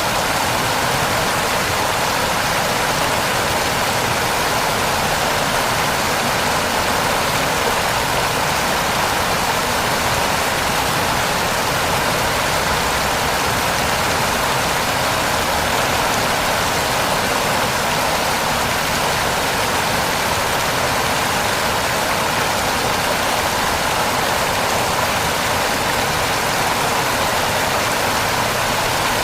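Heavy rain falling steadily, an even hiss of water without breaks or separate drops standing out.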